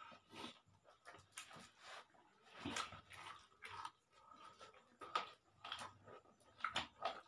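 Faint chewing and lip-smacking from people eating rice and chicken curry by hand: a string of short, irregular smacks and clicks.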